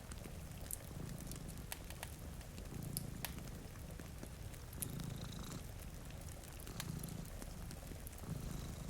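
Domestic cat purring in slow swells, one with each breath about every two seconds, over fireplace crackle with scattered sharp pops.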